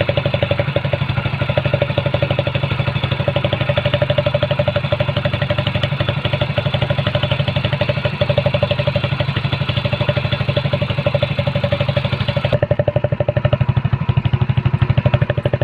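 Hero Splendor motorcycle's small single-cylinder four-stroke engine idling with a rapid, even exhaust putter, while a cut-open soda can is set at the exhaust to change its note. About twelve seconds in, the hissy upper part of the sound drops away and the idle carries on.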